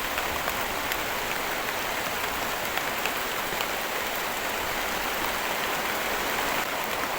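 Heavy rain pouring steadily, with scattered sharper drops ticking through it.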